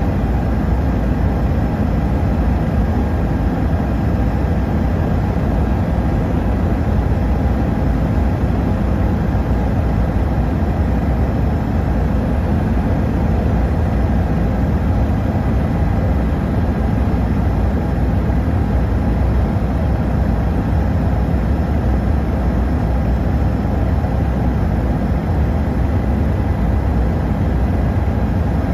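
Tour helicopter in flight: the engine and rotor make a steady, loud drone with a faint high whine above it.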